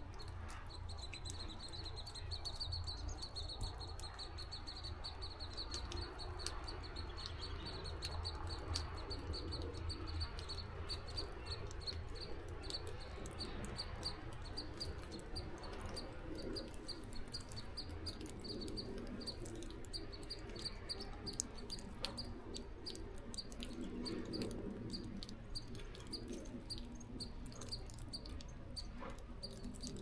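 Snowy forest ambience: a small bird repeats a single high chirp over and over at an even pace, with scattered faint ticks over a steady low rumble.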